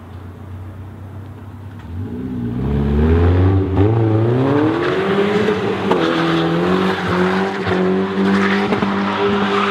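BMW 316i E36 four-cylinder engine running with no exhaust fitted: a low idle, then about two seconds in it revs up hard and stays at high revs with a raw, raspy note that wavers in pitch.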